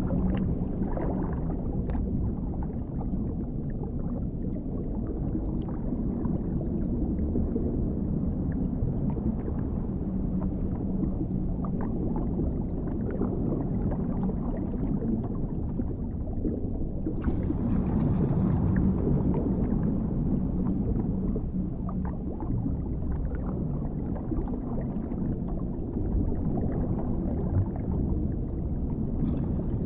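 Underwater ambience: a steady deep rumble with muffled gurgling and scattered faint clicks, swelling briefly about two thirds of the way through.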